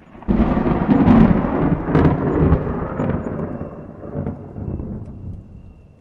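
A thunderclap breaks suddenly about a third of a second in. It cracks sharply several times over the next few seconds, then rumbles and slowly dies away.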